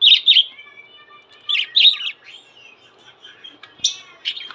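Small pet parrots, budgies and lovebirds, chirping: sharp, loud chirps in pairs at the start and about a second and a half in, a thin held warble between them, and more chirps near the end.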